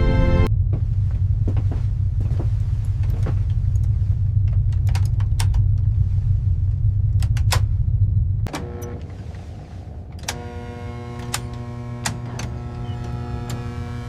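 A steady low machine rumble with scattered light clicks and ticks, which drops away sharply about eight and a half seconds in. Quieter steady droning tones, still with scattered clicks, follow.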